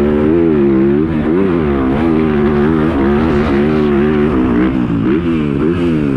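Dirt bike engine revving hard, its pitch rising and falling again and again as the throttle is worked.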